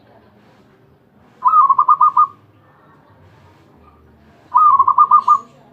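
Zebra dove (perkutut) cooing: two song phrases about three seconds apart, each a rising opening note followed by a quick run of four or five pulsed coos.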